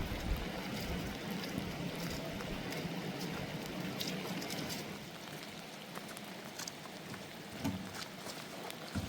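Steady rain, with single drops striking sharply now and then. A low wind rumble on the microphone fades over the first second or so.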